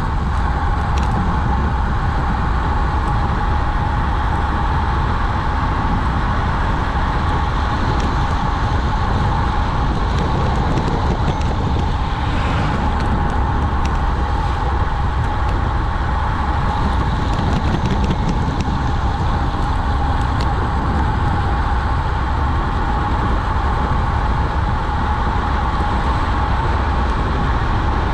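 Steady rushing wind and road noise from a fast descent, with no change in level throughout.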